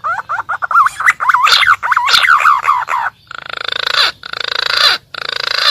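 Green pigeon (punai) lure call: a quick run of fluting whistled notes swooping up and down, then from about halfway a rapid buzzing rattle, broken twice by short gaps, that cuts off suddenly.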